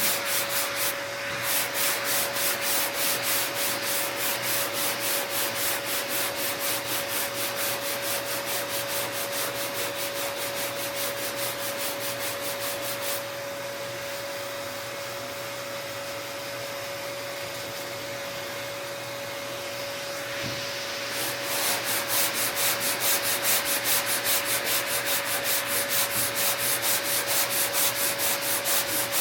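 Hand block sanding of guide-coated body filler on a car fender: a sanding block with sandpaper drawn back and forth in steady strokes, about two to three a second, working the high spots down to get the body line straight. About halfway through the strokes give way to a quieter, steadier rubbing for several seconds, then the brisk strokes resume.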